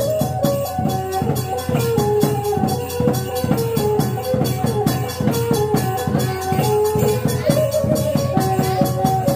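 Khmer chhay-yam festive music: fast, steady beating of drums and small rattling percussion under a melody line that steps between notes.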